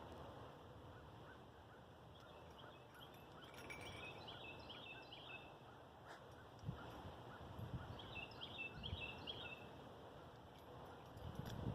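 A songbird singing faintly: two short phrases of quick repeated high notes, a few seconds apart, over a steady low outdoor hiss, with a few soft low thuds in between.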